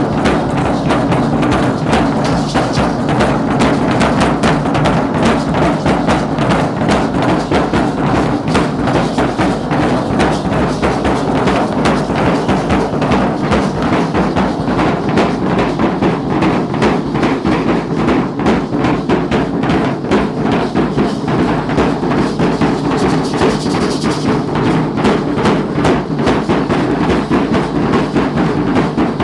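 The drums of a Mexican danza troupe beating a steady, rapid rhythm without a break.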